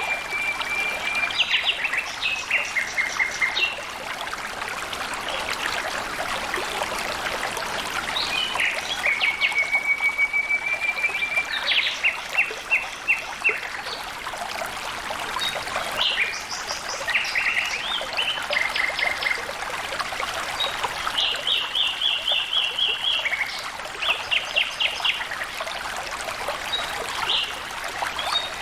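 A stream trickling and splashing steadily, with birds singing over it in short phrases of quick repeated notes and fast trills that come every few seconds.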